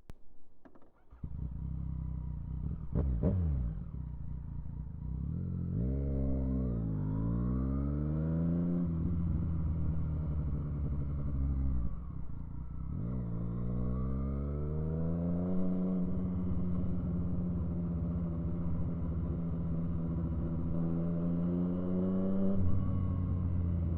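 Yamaha FZ-09's inline three-cylinder engine, coming in suddenly about a second in. It blips briefly, then rises in pitch twice and holds a steady high note for several seconds before dropping lower near the end.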